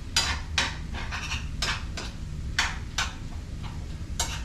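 Kitchen clatter of dishes and utensils being handled on a counter: about seven separate knocks and clinks spread over a few seconds, over a steady low hum.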